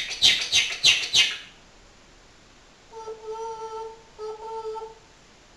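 African grey parrot giving a quick run of about five harsh, rasping calls, then two steady hum-like tones of one pitch, the first held about a second and the second shorter.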